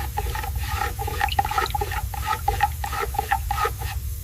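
Freshly mixed two-part coating being worked in a mixing cup: a quick series of short wet sloshing strokes, several a second, over a steady low hum.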